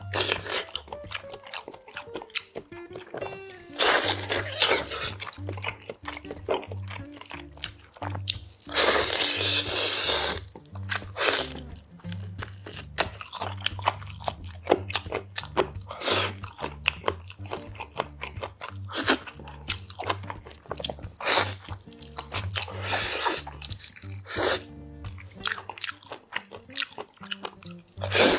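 Close-miked eating sounds: chewing and biting pieces of boiled chicken from samgyetang, with wet mouth noises and louder noisy stretches about four and nine seconds in. Faint background music runs underneath.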